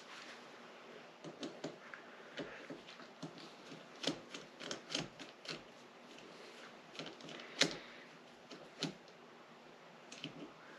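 Irregular light clicks and taps of tools and small parts being handled while a Honda CB450 engine is taken apart, with a sharper knock about seven and a half seconds in.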